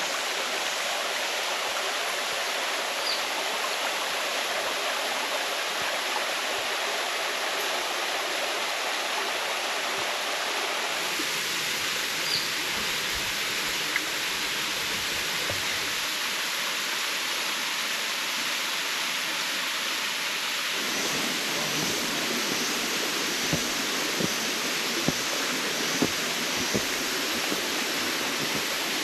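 Water of a shallow river running over rocks in small cascades: a steady rushing hiss. Its tone shifts abruptly about eleven and again about twenty-one seconds in, with a few faint ticks near the end.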